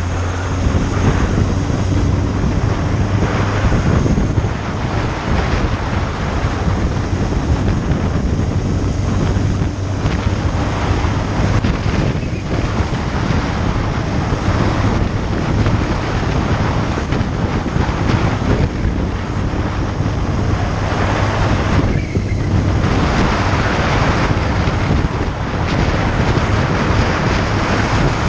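Wind buffeting the microphone on a moving motorcycle, surging now and then, over the steady low hum of the motorcycle's engine.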